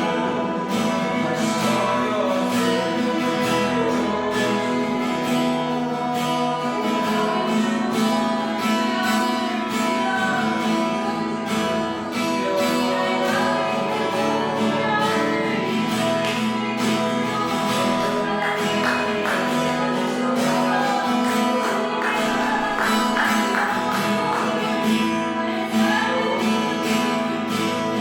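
Worship music: an acoustic guitar strummed steadily over held, sustained notes, with some singing.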